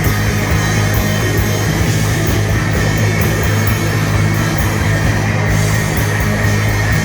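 Rock band playing loudly live: guitar, drums and a heavy bass, with cymbal strokes repeating throughout.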